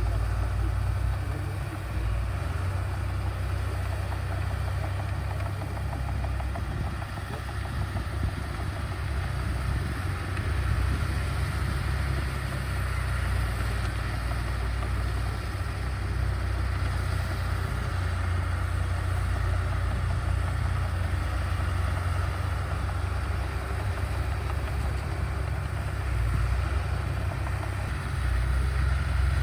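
Diesel engine of heavy earthmoving machinery running steadily, a deep even drone with small rises and dips in level.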